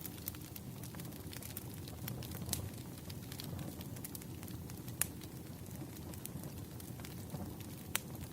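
Wood fire crackling: a steady low rumble of burning logs under frequent sharp snaps and pops, with the loudest pops about five seconds in and again near the end.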